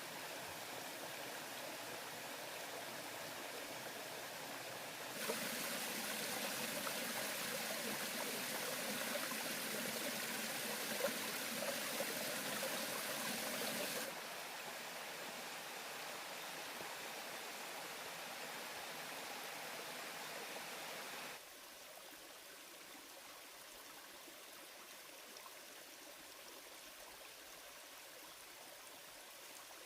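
Stream water running steadily as an even rushing noise. It gets abruptly louder about five seconds in, drops back about fourteen seconds in, and drops again to a quieter flow about twenty-one seconds in.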